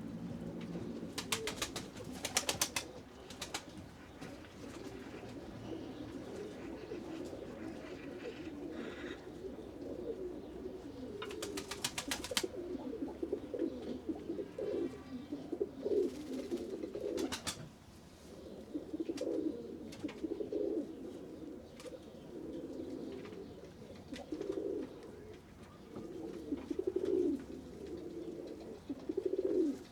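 A flock of pigeons cooing continuously in low, overlapping calls. Three short runs of rapid sharp clicks break in: one near the start, one about halfway through and one shortly after.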